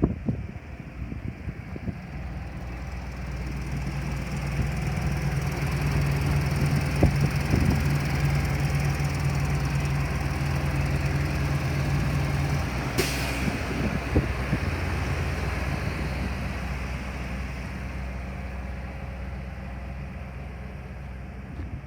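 1992 Ford dump truck's engine running steadily, growing louder over the first half and easing off after about 12 seconds. A brief sharp hiss comes just after the midpoint.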